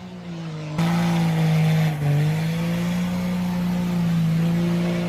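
Pickup truck engine and exhaust running steadily at raised revs, with a sudden jump in loudness about a second in and a brief dip in pitch about two seconds in.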